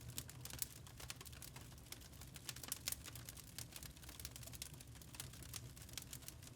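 Wood fire crackling in a fireplace: quick irregular snaps and pops over a low steady rumble.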